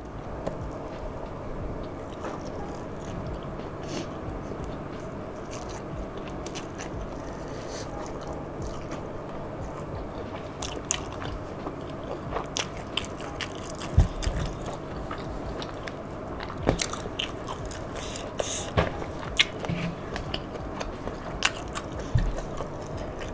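Close-miked chewing and mouth sounds of a person eating rice and curry by hand, with scattered sharp clicks and smacks that come more often in the second half. Fingers scooping rice from the paper-and-banana-leaf wrapping add soft scrapes.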